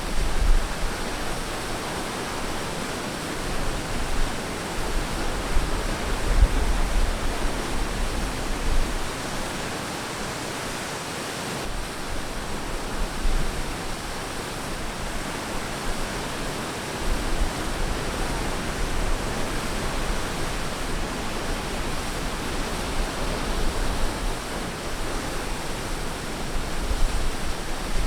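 Ocean surf washing on a beach: a steady hiss of breaking waves that swells and eases gently, with a low rumble now and then.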